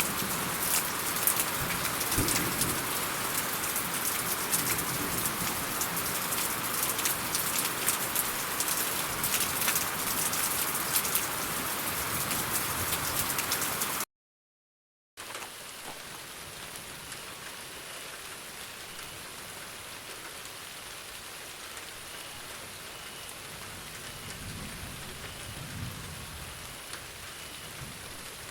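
Heavy rain with many close, distinct drops hitting a surface, which stops about halfway through. After a second of silence, a softer, steadier rain begins.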